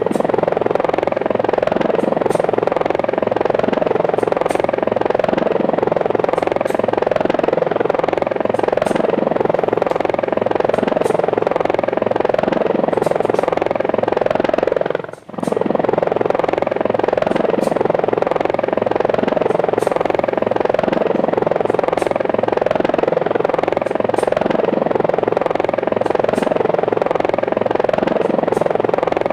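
Helicopter sound, a steady rotor chop and engine drone that cuts out briefly halfway through, a regular gap that suggests a looped sound-effect track.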